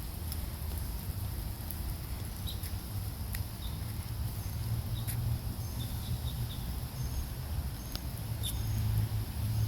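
Sparse raindrops tapping as scattered sharp clicks over a steady low rumble, with a few faint short high chirps.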